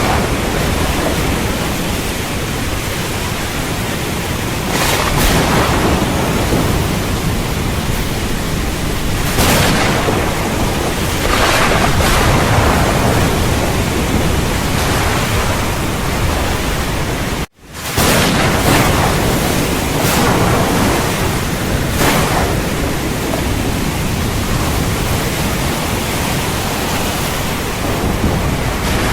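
Steady heavy rain with several swells of rolling thunder. The sound cuts out for a fraction of a second about halfway through, then resumes.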